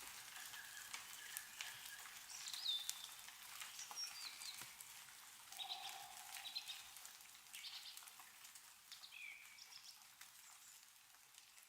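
Meltwater dripping from snow-laden trees in scattered ticks, with small birds giving short chirps and gliding calls now and then. It grows fainter toward the end.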